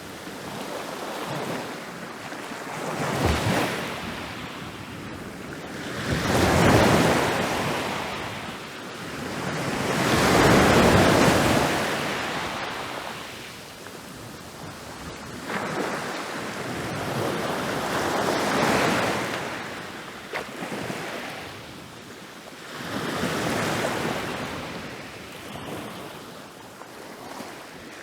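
Rolling ocean waves crashing on a beach, the surf rising and falling in about five surges, each a few seconds apart. The strongest surges come about a quarter and about a third of the way in.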